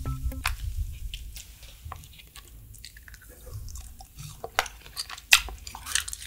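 Close-miked chewing of broken candy shards. It is quiet at first, then a handful of sharp, separate crunches and clicks come from about four and a half seconds in.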